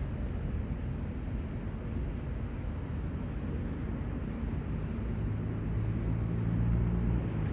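Steady low rumbling outdoor noise with an engine hum swelling about five seconds in, with faint repeated high ticks above it.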